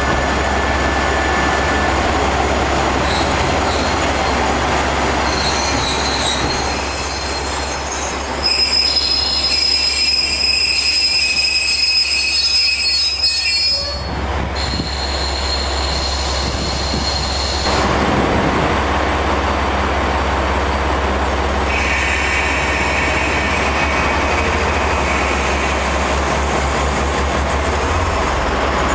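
Train running into the platform, with a high squeal from its wheels lasting several seconds in the middle and returning briefly near the end, over a steady low rumble.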